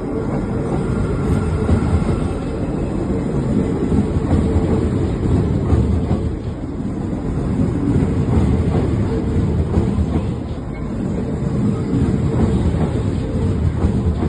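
Train running on the rails, a continuous loud rumble with a faint steady tone above it.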